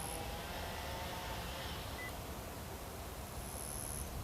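Steady low rumble of background noise with one short electronic beep about two seconds in, of the kind an RC transmitter gives during flight.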